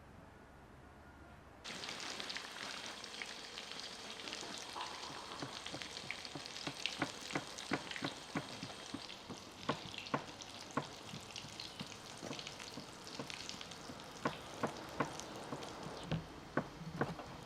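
Piroshki buns frying in hot vegetable oil: a steady sizzle full of sharp crackles and pops, starting abruptly a couple of seconds in.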